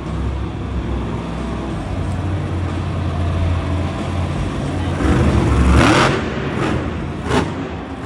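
Monster truck engine running with a heavy low rumble, swelling to its loudest about five to six seconds in as it revs, with a brief sharp burst near the peak.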